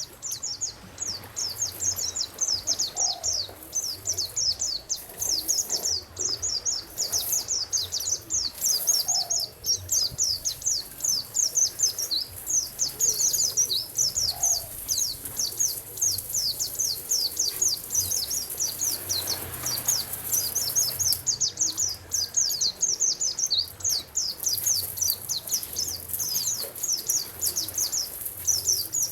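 Songbirds chirping in a fast, dense, continuous twitter, with a short lower call every few seconds, over a faint steady hiss.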